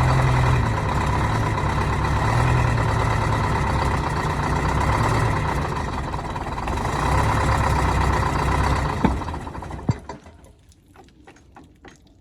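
Diesel engine of a 1971 Insley excavator running steadily, then shut off about ten seconds in, with a couple of sharp knocks just as it stops, leaving only faint outdoor background.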